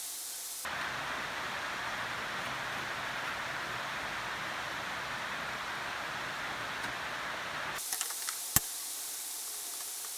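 A steady hiss of spray or escaping air for about seven seconds, starting and stopping abruptly. A few light ticks and one sharp click follow near the end.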